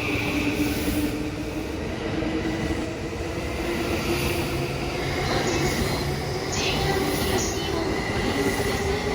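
JR East E235 series 1000 electric commuter train departing and rolling past: a steady rumble of wheels on rail with a low electric motor hum. About halfway through come a few short high wheel squeals.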